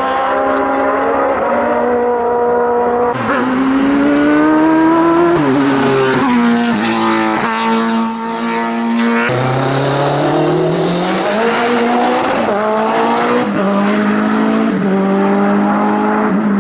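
Race-tuned VW Corrado 16V hillclimb car under hard acceleration, its engine climbing in pitch and dropping in steps with repeated gear changes and lifts.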